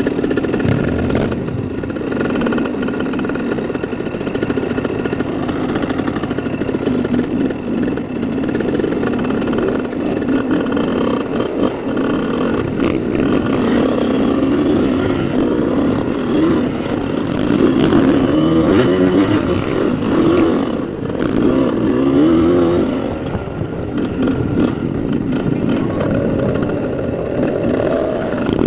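Off-road motorcycle engine running hard, its pitch rising and falling with the throttle, with occasional knocks.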